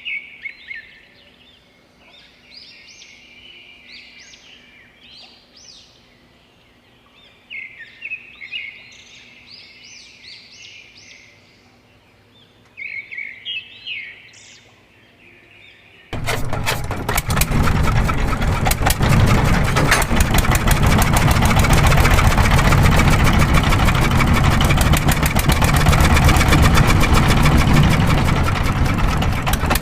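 Birds chirping in short bursts, then past the halfway mark a small motor cuts in abruptly and runs loudly and steadily with a fast, even rattle.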